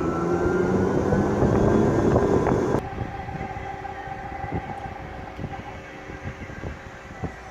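Zip-line trolley wheels running along the steel cable: a loud rolling rumble with a faintly rising whine, which cuts off abruptly about three seconds in and leaves a quieter steady hum with a few clicks.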